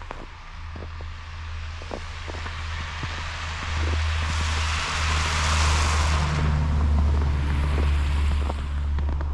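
A vehicle driving past, its tyre hiss swelling to a peak about five to six seconds in and then fading, over a steady low rumble.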